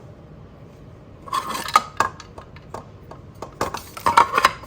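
Hard plastic and metal parts handled and set down: two bursts of clicks and clatter, the first starting about a second in and the second near the end.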